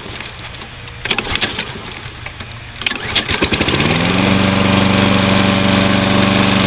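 A Toro Recycler's 149 cc Kohler overhead-valve engine starting on its automatic choke. It catches about three seconds in, speeds up, and settles into a steady run.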